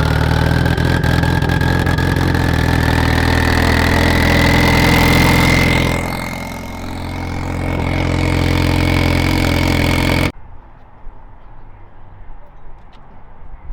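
Car engine running at a steady speed under a high whine that slowly rises in pitch, dipping briefly, then cutting off suddenly about ten seconds in.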